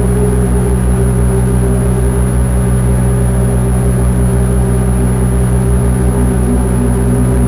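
Dark ambient synthesizer drone from a Lyra-8: several steady tones held in the low and middle range, with a fast flutter in the deep bass and a thin, high steady whine above.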